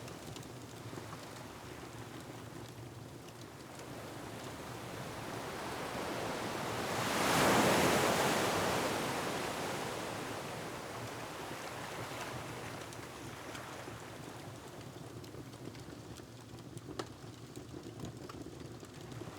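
Ocean waves surging against a rocky shore: the sound swells to one big crash about halfway through and then washes back. A wood fire crackles faintly now and then.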